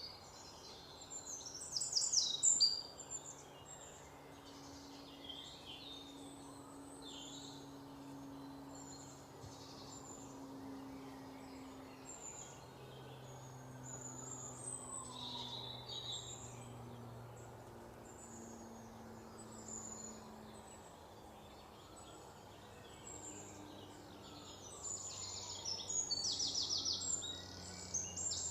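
Birds chirping and singing, with quick trills about two seconds in and again near the end, over a faint steady low hum.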